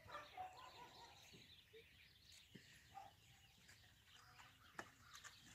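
Near silence with faint, scattered bird calls and chirps.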